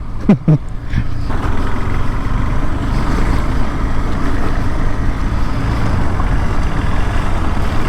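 KTM 390 Adventure motorcycle riding through a muddy trail: a steady low rumble of engine and rolling noise.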